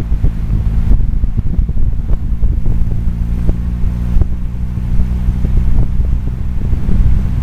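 Volkswagen Scirocco 16V's four-cylinder engine running steadily at cruise, heard from a camera mounted on the outside of the car, with wind buffeting the microphone. Occasional light knocks come through.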